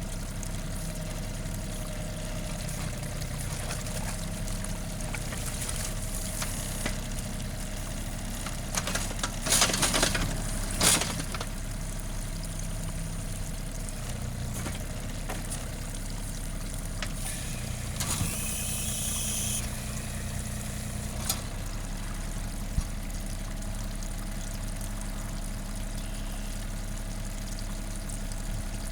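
John Deere 4200 compact tractor's three-cylinder diesel engine running steadily at work. Two loud rough bursts come about ten seconds in, and a short high hiss follows around eighteen seconds.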